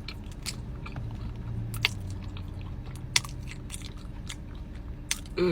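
Close-miked eating: a person biting into and chewing cheese-sauce-covered fries, with small wet clicks and a couple of sharper ticks, and a short voiced sound right at the end.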